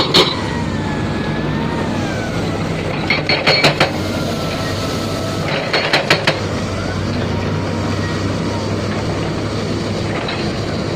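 Heavy construction machinery engine running steadily, with sharp metallic clanks right at the start, a burst of several around three to four seconds in, and another burst around six seconds in. A faint whine wavers in pitch above the engine.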